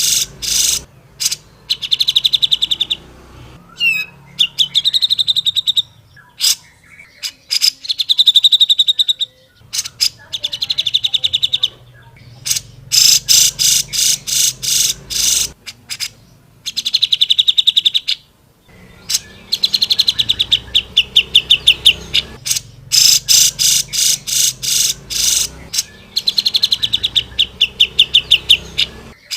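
Grey-cheeked bulbul (cucak jenggot) singing loudly and continuously in the fiery 'gacor' style. Its phrases are a second or two long: rapid strings of sharp, piercing notes alternating with fast rattling trills, with short gaps between them.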